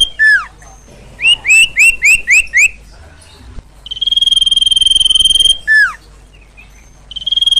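Loud, repeating bird call of the sirtu/sirpo: a falling slurred note, then six quick rising chirps, then a long steady high whistle of about a second and a half ending in another falling slur. Another long whistle starts near the end. The sequence repeats identically, as from a looped lure recording.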